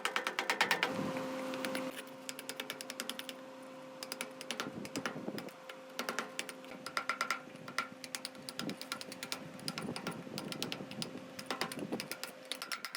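Ratchet wrench clicking in quick runs, with a faint steady hum underneath.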